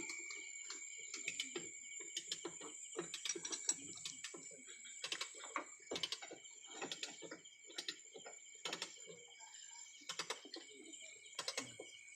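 Irregular sharp clicks and knocks from hand work on the pipe, over a steady high-pitched drone of insects.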